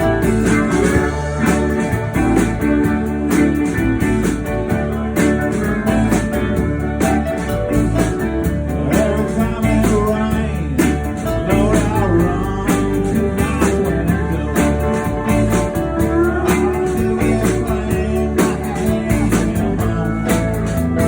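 Live band playing a song, guitar over a steady beat.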